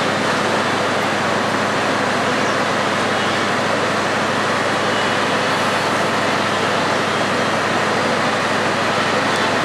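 Passenger train rolling slowly out of a station: a steady, even rumble with no clear changes.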